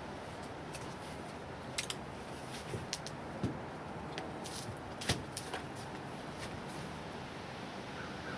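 Scattered light clicks and rustles of a plastic face shield and its headgear being handled and adjusted, most of them between about one and six seconds in, over a steady background hiss.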